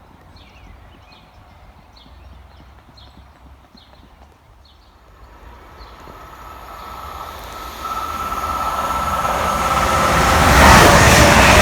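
A train approaching along the line, a steady high ringing from the rails ahead of it and the rumble growing louder until it is close by near the end. A repeated high chirp sounds over the quiet first half.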